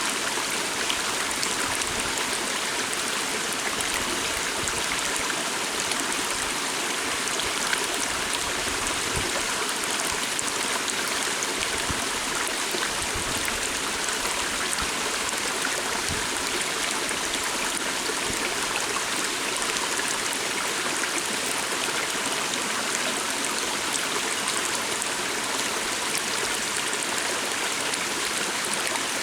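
Stream water flowing steadily, an even rush with no pauses or changes.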